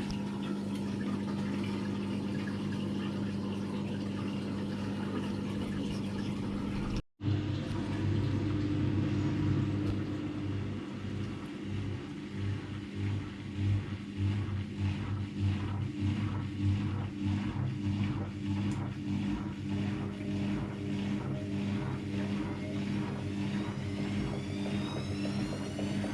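AEG Lavamat Turbo washer-dryer on its spin cycle: a steady motor hum with a rhythmic knock about twice a second, which the owner takes for the belt pulley at the back rattling. Near the end a rising whine as the drum speeds up.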